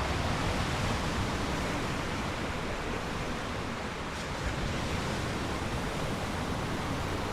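Strong storm wind blowing over the microphone, with waves breaking on a large lake, heard as a steady, even rush of noise with a gusty low rumble.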